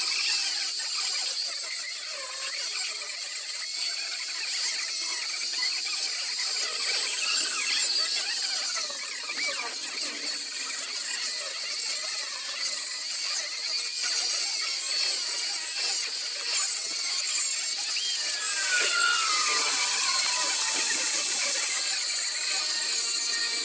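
High-speed rotary carving tool grinding into wood, a continuous high-pitched whine and rasp, with a pitch that falls for a couple of seconds near the end.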